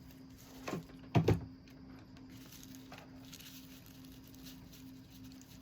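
Faint rustling of dry straw being pressed into a small glued nest by hand, with two short low thumps about a second in, over a steady low hum.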